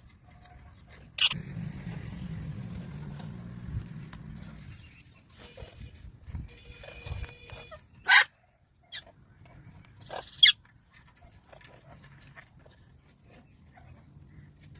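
Parrots squawking: three short, loud screeches, about a second in, at about eight seconds and at about ten and a half seconds, with softer calls between. A low hum runs under the first few seconds.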